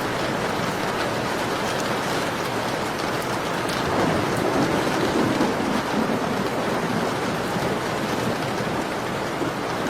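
Steady rain falling, with scattered light clicks from a crackling wood fire. About four seconds in, a deeper swell rises for a couple of seconds, then fades back into the rain.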